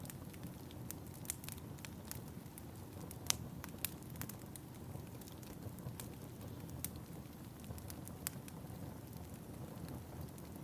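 Fireplace fire crackling: a steady low rumble of flames with scattered sharp pops and snaps, one louder pop about three seconds in.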